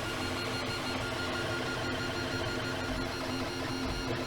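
3D printer running a print: its stepper motors whir steadily with several held tones.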